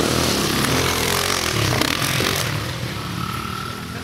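Dirt bike engine running, its pitch wavering with the throttle; it is louder for the first couple of seconds, then eases off.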